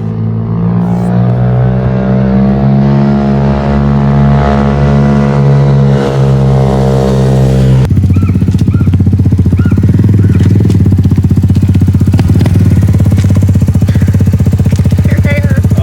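Dirt bike engine running at a steady fast idle, then about eight seconds in dropping to a lower idle with a rapid, even pulsing beat.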